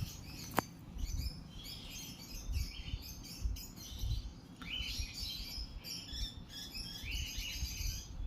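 Lovebirds chirping: many short, high chirps overlapping throughout, with a sharp click about half a second in.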